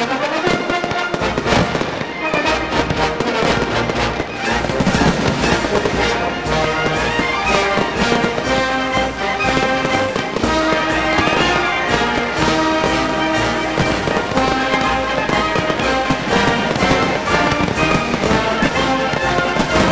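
Fireworks firing in quick succession, a dense run of sharp bangs and cracks from comets and small shells, with music playing alongside.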